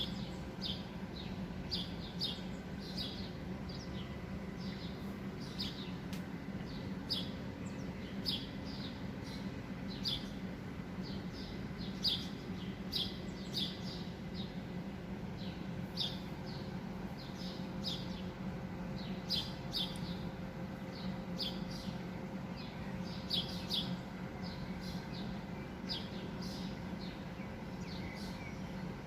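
Small birds chirping again and again, short high chirps in quick runs, over a steady low background rumble.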